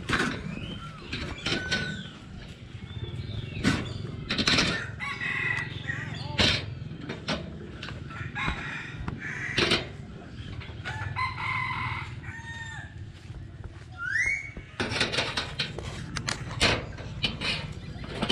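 Chickens calling, with rooster crows and clucks, mixed with frequent sharp knocks or flaps.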